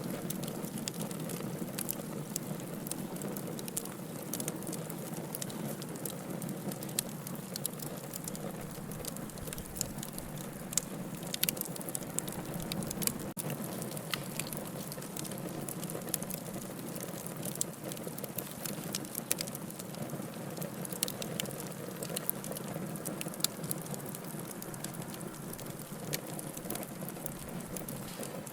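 Logs burning in a fireplace, a steady low rush of flame with frequent sharp crackles and pops at irregular intervals.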